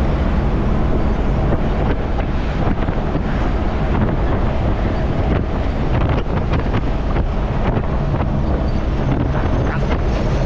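A truck running on the road with a steady low engine hum, under heavy wind and road noise, and a few brief rattles or knocks.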